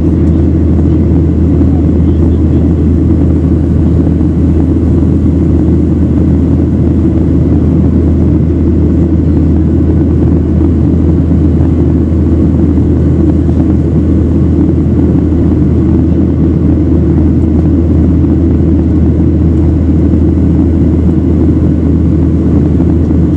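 Steady jet airliner cabin noise heard from inside the passenger cabin: a constant low rumble of engines and airflow that neither rises nor falls.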